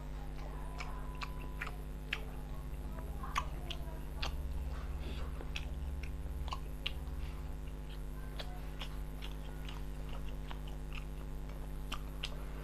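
A man chewing a mouthful of rice and curry close to a clip-on microphone: wet chewing with frequent small smacks and clicks, over a steady low hum.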